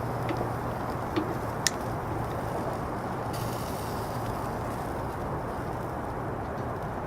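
Steady low rumbling background noise with a low hum, and three short sharp clicks in the first two seconds.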